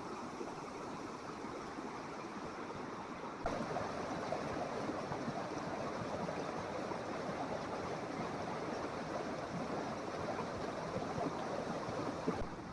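Rushing floodwater of a rain-swollen creek, a steady rushing noise that grows louder about three and a half seconds in and drops back near the end.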